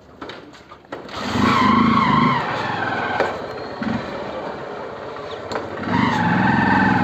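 Motorcycle engine running in two loud spells, one about a second in and one near the end, its pitch wavering up and down.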